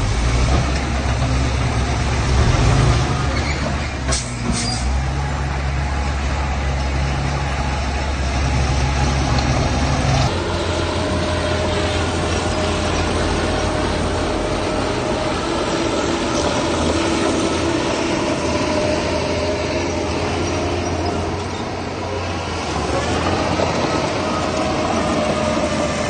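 Heavy diesel machinery engine running steadily under load, with two brief high squeals about four seconds in. The engine note changes abruptly about ten seconds in and then runs on at a higher, steadier pitch.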